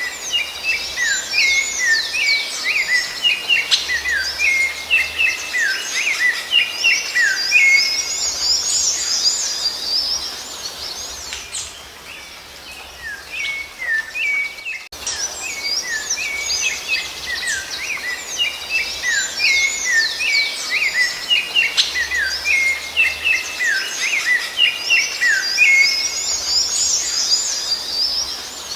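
Rufous-bellied thrush (sabiá-laranjeira) song: quick runs of chirped and whistled notes. There is a quieter lull about twelve seconds in, then the same passage plays again, as in a looped recording.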